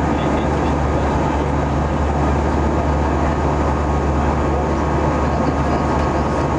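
Jet airliner cabin noise in flight: a steady rush of airflow and engine drone with a low hum underneath, heard from inside the cabin.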